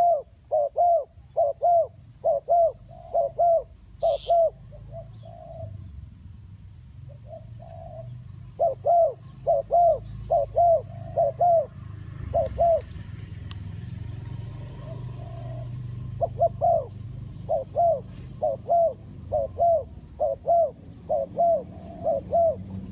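Spotted dove cooing: short arched coos repeated about two to three a second in long runs, with a couple of brief pauses. A steady low rumble sits underneath.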